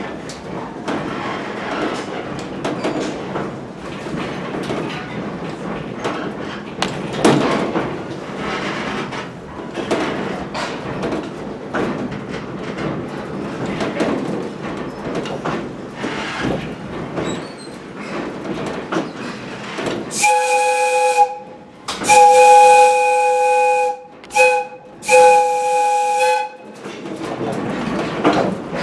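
Coach rumbling and clattering over the rails. About two-thirds of the way through, the chime steam whistle of Valley Railroad Mikado #40 blows four blasts, long, long, short, long: the grade-crossing signal.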